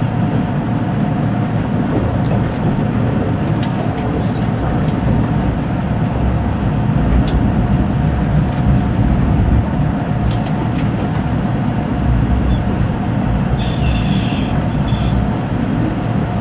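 Steady running noise inside a 485 series electric train carriage: a low rumble of wheels on the rails with a few scattered clicks. A brief high-pitched squeal comes in near the end.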